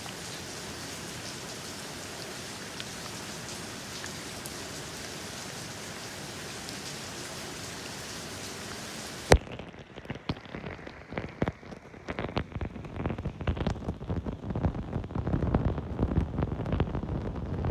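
Steady rain hissing evenly, then a sharp click about nine seconds in where the sound switches to a duller, rougher patter of uneven drops with a low rumble that grows louder toward the end.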